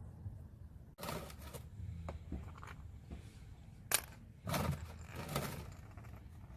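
Metal wrench handling on a tight oil drain plug: a few short scraping rustles and one sharp metallic click about four seconds in.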